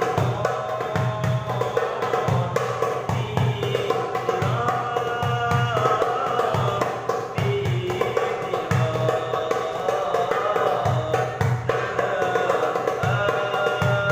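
Arabic devotional song (sholawat) sung by a voice over a darbuka, the drum keeping a steady beat of about two strokes a second under long held, sliding notes.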